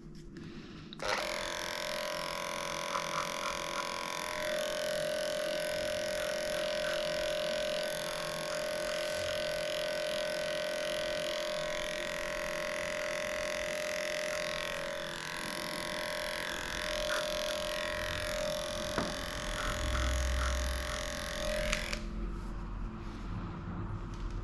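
Electric dog grooming clippers running steadily while shaving off matted coat; the motor switches on about a second in and cuts off near the end.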